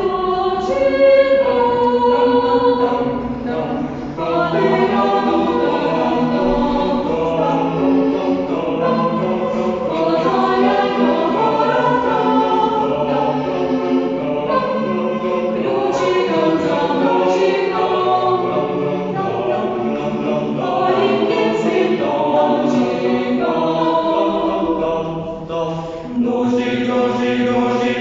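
A choir singing a song, with several voices sustaining notes together; the singing thins briefly about four seconds in and again near the end.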